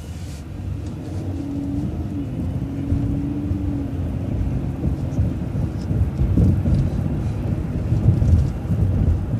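Road and engine rumble heard from inside a moving bus, getting louder in the first couple of seconds as it picks up speed, with a faint steady whine for a few seconds early on.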